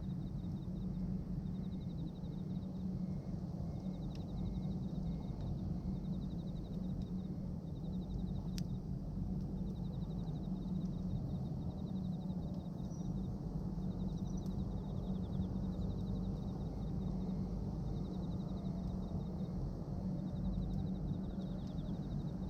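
Bonfire of pruned branches burning with a steady low rush and a few sharp pops, while an insect chirps in repeated short trills.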